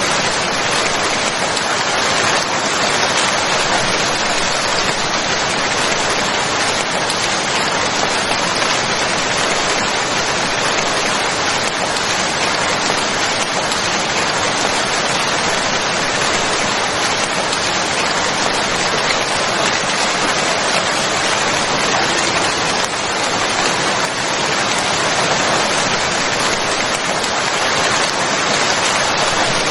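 Steady, dense rainfall: an even hiss of many drops with no distinct drips, thunder or changes.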